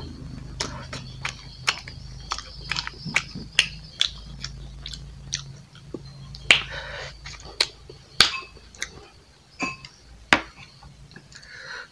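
Close-miked chewing of a mouthful of rice and pork: wet mouth smacks and clicks at an irregular pace, with a few louder smacks every second or two.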